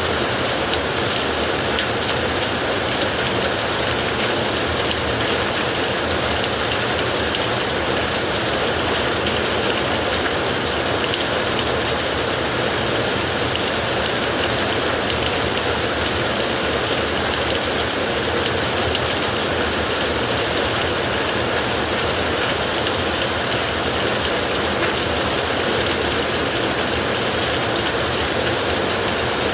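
Heavy rain falling on a tin roof, a steady, dense hiss with no let-up.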